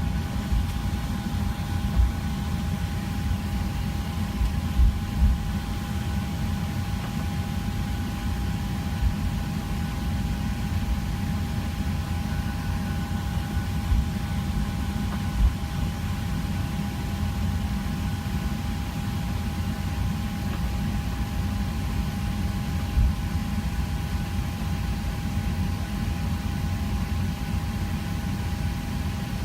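Steady cabin hum inside a Southwest Boeing 737 on the ground: a low rumble with a constant whine over it, and a few brief low thumps.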